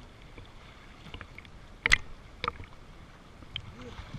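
Faint steady sound of running water, broken by a few short, sharp knocks; the loudest comes about two seconds in and a smaller one half a second later.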